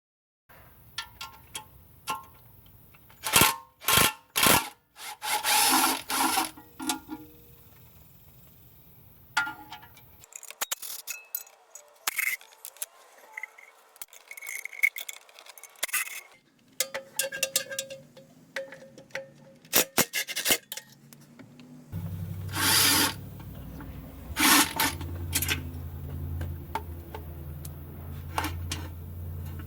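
Hand tools and metal parts being worked: sharp clinks, knocks and scraping, broken into several separate stretches. A low steady hum joins in over the last third.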